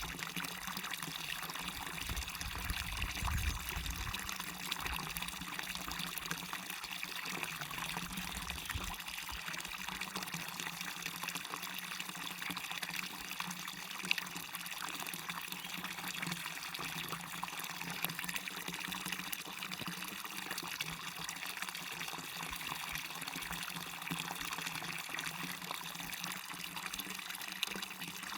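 Waterfall and stream running water: a steady, even rush and splash of falling water, with a brief low rumble early on and a single sharp tick about halfway through.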